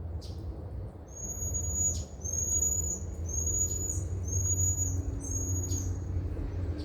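A bird calling: a series of about five high, level whistled notes, each under a second long, over a steady low rumble.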